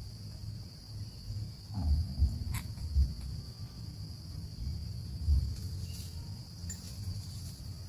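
A steady, high-pitched insect chorus, typical of crickets, with irregular low bumps and a few faint clicks.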